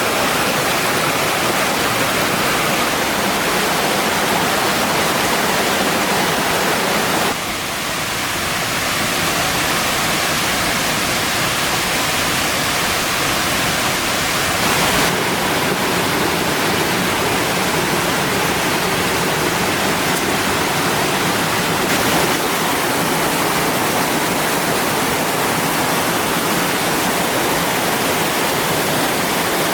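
Steady rush of flowing stream water, like a small cascade, loud and even throughout. Its tone shifts abruptly about a quarter, halfway and two-thirds of the way through.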